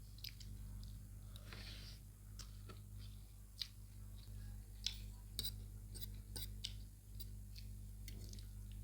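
People chewing sukuti chowmein (noodles with dried meat), with scattered sharp clicks and smacks of eating, over a steady low hum.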